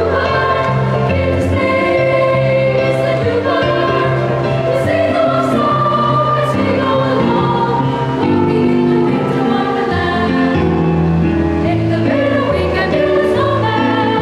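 Children's choir singing a Christmas carol over instrumental accompaniment, with a steady bass line under the held notes.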